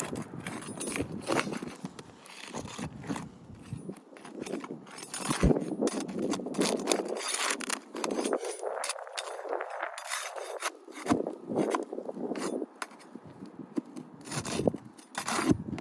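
Flat pry bar scraping and prying under brittle asphalt shingles to break their seal strips, with irregular scrapes, small clicks and a sharp knock about five seconds in.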